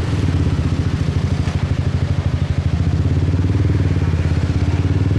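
Motorbike engine running steadily while riding, a rapid, even low pulsing that stays at the same pitch throughout.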